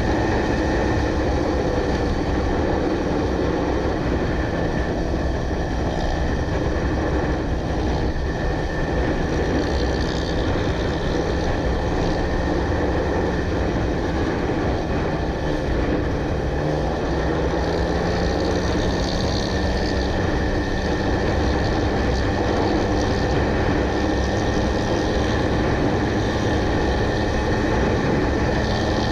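Motorcycle engine running steadily under way, mixed with a steady rush of noise.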